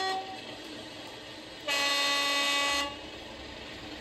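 Accurascale Class 37 model's sound decoder sounding a two-tone diesel horn through its small onboard speaker: a high note cuts off just as it begins, and about a second and a half later a lower note sounds for about a second. Between the notes the loco's idling engine sound runs quietly underneath.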